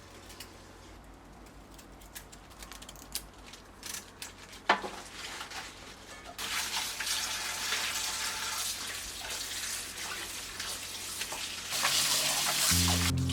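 Water at a sink: a few drips and small knocks, then about six seconds in a tap runs in a steady stream, louder near the end.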